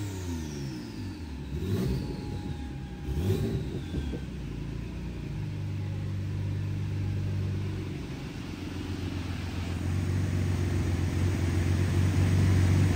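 Twin-turbo Nissan 370Z engine coming down off a full-power dyno pull: the revs fall away, two brief blips follow about a second and a half apart, then it settles into a steady idle.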